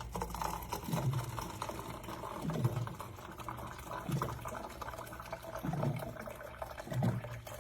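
Water being poured into the Keurig K-Duo coffee maker's water tank until it is full. The pour runs steadily, with a low gurgle about every second and a half.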